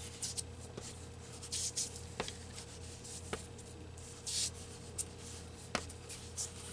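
Handheld ink applicator scuffing ink onto paper: a few short scratchy swishes, with light taps in between.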